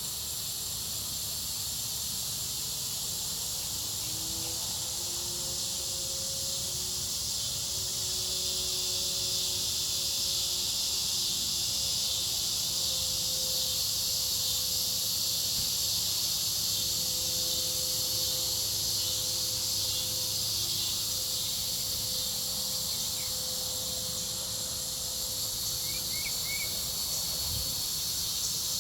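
Chorus of cicadas droning steadily at a high pitch, with a faint low hum of nearby machinery coming in about four seconds in underneath.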